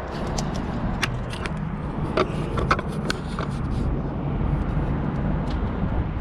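Light clicks and taps of hands working on the wiring, scattered through the first half, over a steady low outdoor rumble.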